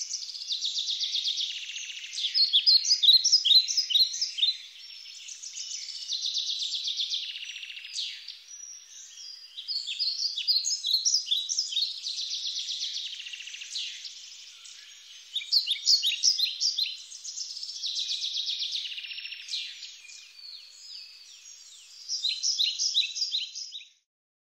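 Small songbird singing: a series of high, quick notes and trills, one phrase after another with short pauses between them. The song stops shortly before the end.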